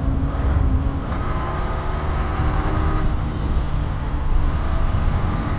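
Yamaha R15 V3's 155 cc single-cylinder engine running at a steady cruising speed while the motorcycle is ridden, with no clear revving up or down.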